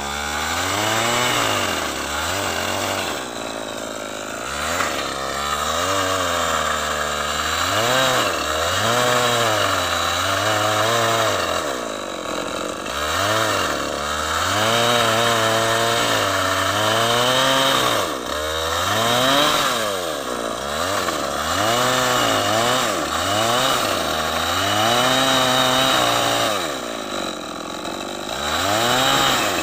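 Chainsaw running while cutting wood, its engine pitch rising and falling over and over as it revs up and drops back.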